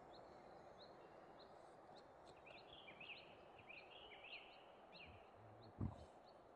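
Faint bird calls: a scatter of short high chirps, thicker through the middle, over a low steady background hum. A single dull thump stands out near the end.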